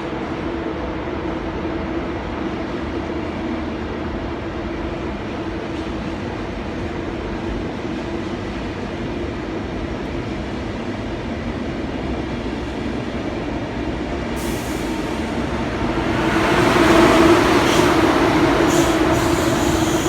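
Train running with a steady humming tone under rolling noise. It grows louder about three-quarters of the way through, with a few sharp clicks near the end.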